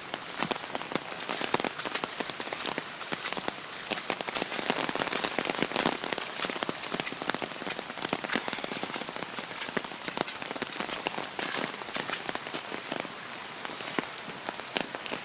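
Heavy rain pouring down, a steady hiss with many sharp taps of drops striking close by.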